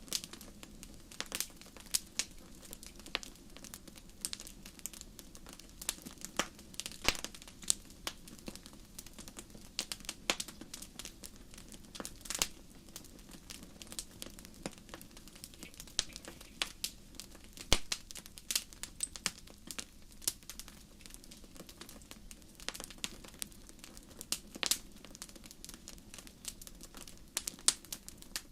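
Fire crackling: irregular sharp pops and snaps, several a second and varying in strength, over a faint steady low hum.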